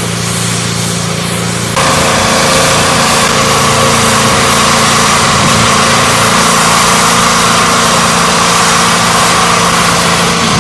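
Small petrol engine of a mobile high-pressure unit running steadily. About two seconds in it gets louder, and a steady hiss with a high tone joins and holds.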